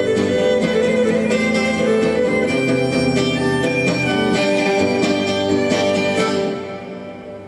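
Guitar and violin playing an instrumental passage without singing, with sustained violin notes over guitar strumming. The music dies away about six and a half seconds in.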